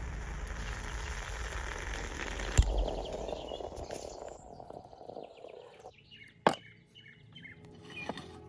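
Small birds chirping in short repeated calls in the second half, after a dense steady hiss in the first half. A few sharp clicks or knocks, the loudest about six and a half seconds in.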